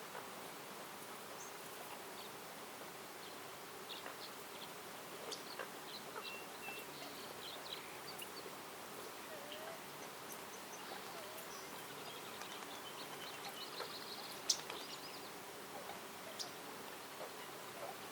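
Woodland ambience: scattered short bird chirps and calls over a steady background hiss, with one sharp click about fourteen seconds in.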